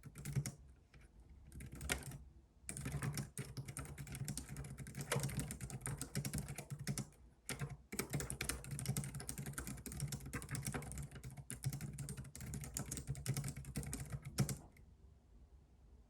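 Fast typing on a computer keyboard, with a few brief pauses; the typing stops about a second and a half before the end.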